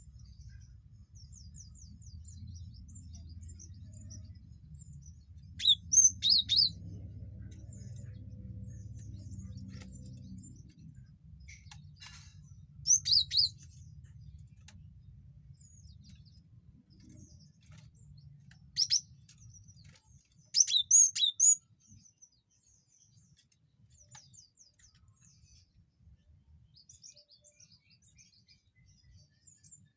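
Cinereous tit (gelatik batu) calling: loud bursts of sharp, high, repeated two-note whistles about every few seconds, with faint rapid high chattering in between.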